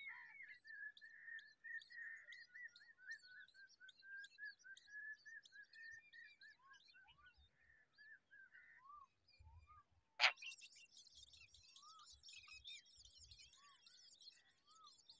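Birds chirping: a quick run of chirps for the first nine seconds or so, then a sharp click about ten seconds in, after which a dense, high-pitched chatter of chirps fills the rest.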